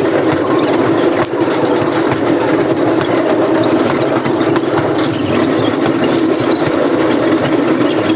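Old train running: a loud, steady mechanical rumble of the train in motion.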